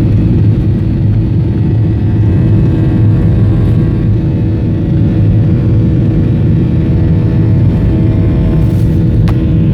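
Heavy downpour of rain, a loud steady rumbling noise with no let-up.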